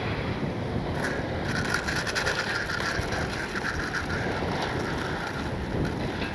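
Strong wind buffeting the microphone. From about a second in until near the end there is a rapid, rattling mechanical buzz.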